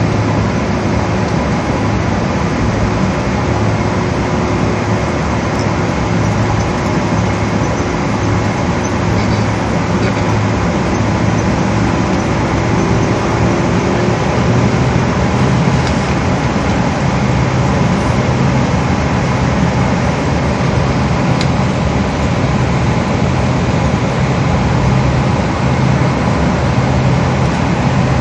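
Steady cabin noise inside a Boeing 777 on the ground after landing: the even rush of the idling engines and air conditioning, with a low hum underneath.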